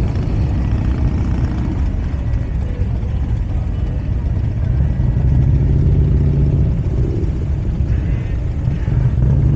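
Motorcycle engines running close by with a loud, low rumble that swells about five to seven seconds in.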